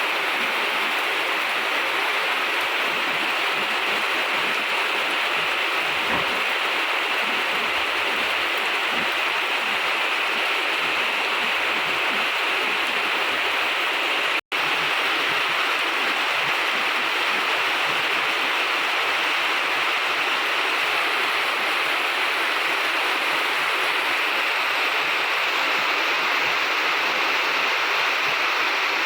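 Heavy rain falling in a steady, even hiss, cutting out for an instant about halfway through.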